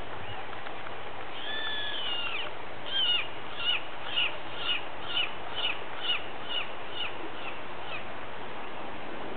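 A bird singing: a drawn-out whistled note, then a run of about ten short, falling whistled notes at roughly two a second that fade away near the end, over a steady background hiss.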